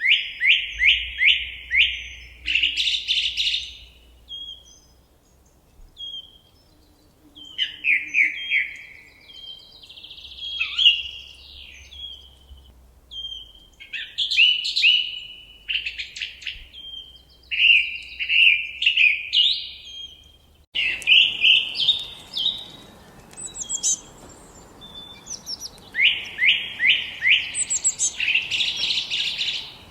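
Forest songbirds singing: repeated short phrases made of a quick run of falling notes, with pauses between them. About two-thirds of the way through, a faint steady background hiss comes in suddenly.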